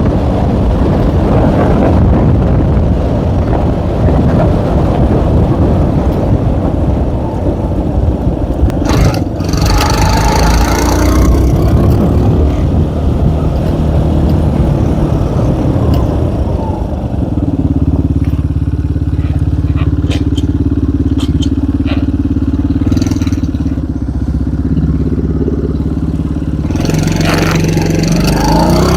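K-Moto ATX moped's small engine running on the move, with wind buffeting the microphone. About two-thirds of the way in, the engine settles into a steady, even note.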